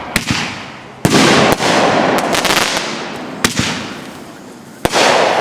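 Fireworks going off: a sharp bang about a second in and another near the end, each followed by a crackling hiss that fades over a couple of seconds, with scattered pops in between.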